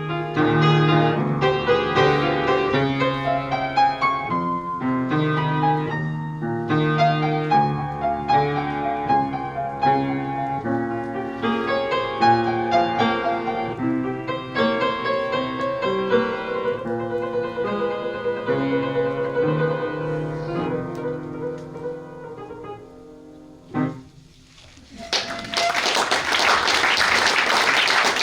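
Solo piano playing, which dies away about four-fifths of the way through; after a short pause, audience applause starts and continues.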